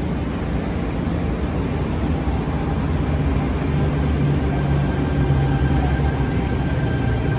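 Electric suburban train running, a steady rumble that grows slightly louder, with a faint high whine coming in about five seconds in.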